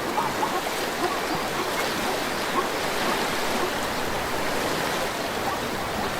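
A zebra crossing a river, its legs churning the water into a steady rushing splash.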